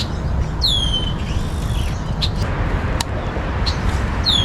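A bird gives two loud calls that slide down in pitch, one about half a second in and one at the end, over a steady low rumble, with a few sharp ticks between.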